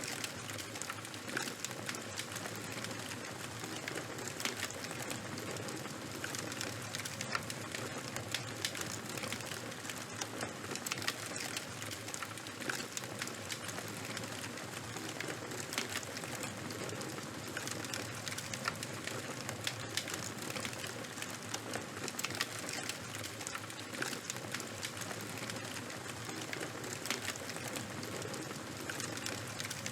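Charcoal fire burning with a steady hiss and frequent small pops and crackles, several a second.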